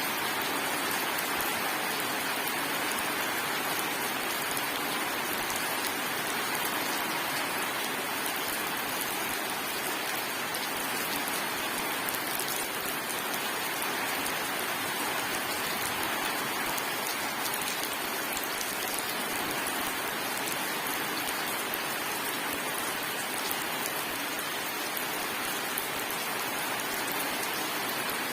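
Steady rain falling on surfaces: a continuous even hiss of many drops, with no thunder.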